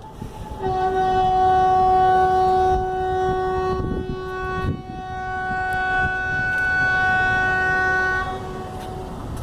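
A long, steady horn blast on one pitch. It starts just under a second in, weakens briefly about four seconds in, and stops a little after eight seconds.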